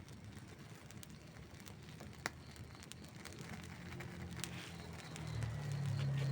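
Wood fire crackling, with scattered small pops and one sharper pop a little past two seconds in. A low rumble builds through the second half and becomes the loudest sound near the end.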